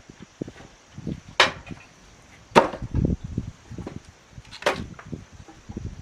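An axe chopping wood: three sharp strikes a second or two apart, with lighter, duller knocks in between.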